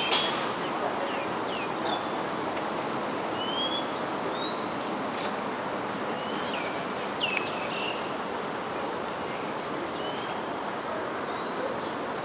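Birds calling with short whistled chirps, some rising and some falling, scattered about once a second, over a steady background hiss of outdoor noise.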